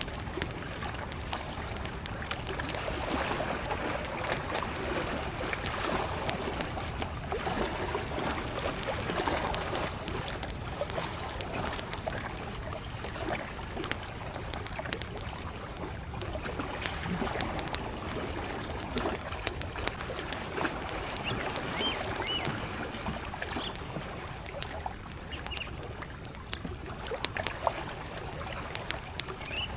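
Campfire crackling with frequent sharp pops, over small lake waves lapping at the shore. A few distant bird chirps come in during the last third.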